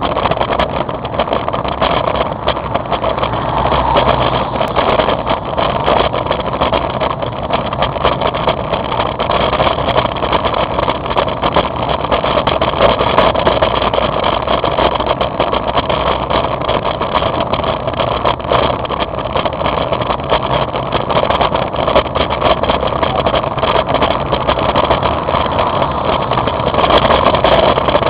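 Steady rushing noise of a two-wheeler being ridden in the rain: wind, wet road and motor noise, with many small crackles.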